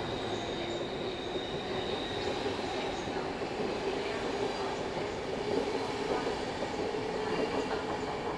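A train running on the rails, a steady rumble with faint squealing tones from the wheels.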